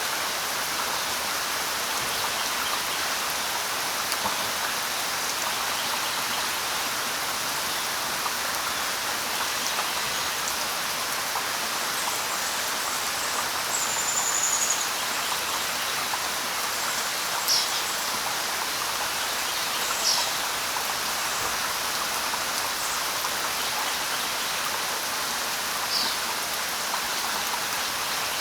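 Steady light rain falling on leaves, with a few short bird chirps here and there above it.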